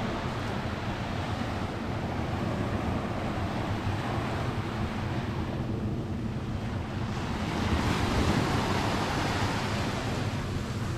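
Mediterranean surf breaking and washing up the beach in a steady rush, with one wave swelling louder about eight seconds in.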